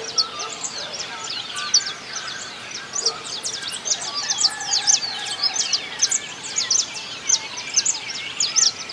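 A dawn chorus of several songbirds: dense, quick high chirps and trills overlapping throughout, with some lower whistled notes.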